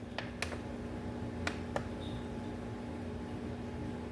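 Room tone: a steady low hum with a few faint, light clicks in the first two seconds.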